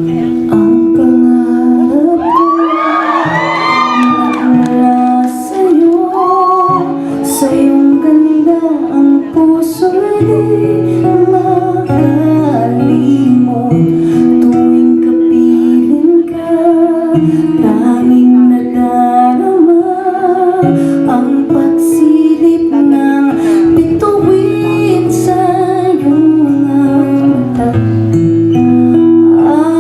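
Acoustic guitar playing a slow accompaniment while a woman sings over it, with a voice gliding up and down in pitch about two to four seconds in.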